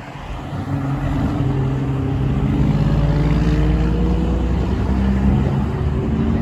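Truck engine driving by, building in loudness over the first second into a deep, steady drone, with its pitch rising slightly in the middle as it pulls.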